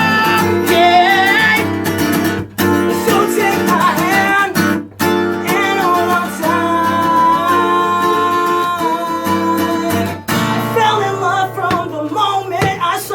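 Acoustic guitar strummed under male singing, the voice holding one long note through the middle, with two brief breaks early on.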